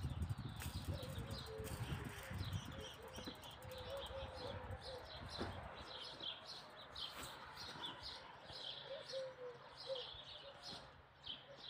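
Small birds chirping over and over in short, high calls. A low rumble sits under them for the first two or three seconds.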